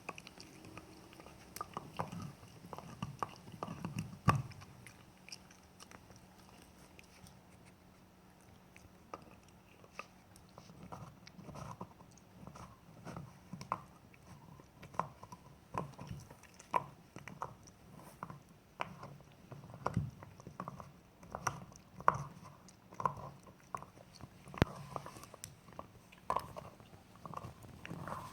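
Jack Russell terrier chewing and gnawing on a bone: irregular crunches and sharp cracks, sparser for a few seconds early on, then coming steadily about once or twice a second.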